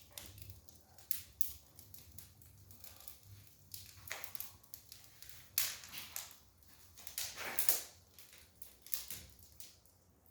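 Wood fire burning in a newly built brick fireplace, crackling and popping irregularly.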